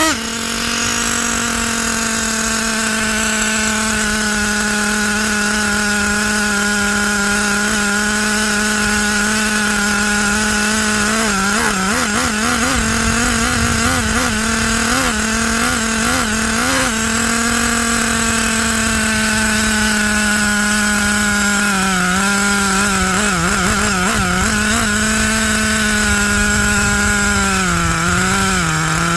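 Traxxas T-Maxx RC truck's 3.3 nitro two-stroke engine running at a steady high idle. It drops back from a short rev right at the start, and its pitch wavers and dips a few times.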